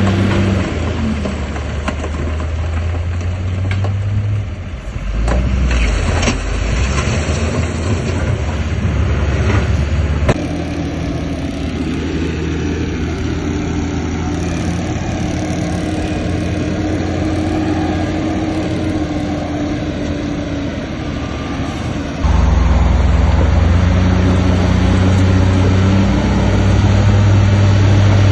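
Heavy diesel earthmoving machinery running, with a low engine drone, a few knocks in the first third, and the sound changing abruptly about ten seconds in and again about 22 seconds in.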